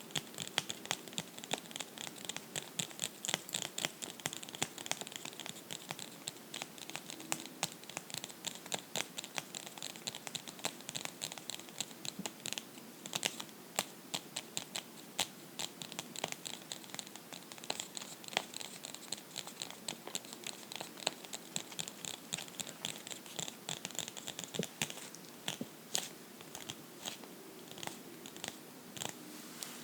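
Fingernails scratching and tapping on a book, a rapid, continuous run of small clicks and scrapes.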